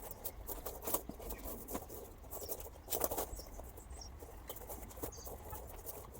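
Irregular light clicks and knocks from scrap cable and copper being handled, with a few sharper knocks: one just after the start, one about a second in and one about three seconds in.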